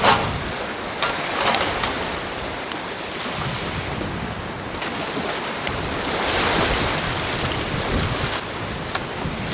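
Sea waves breaking and washing ashore, with wind buffeting the microphone in a low rumble. The surf swells about a second and a half in and again around six to seven seconds. A few sharp clicks sound over it, the loudest right at the start.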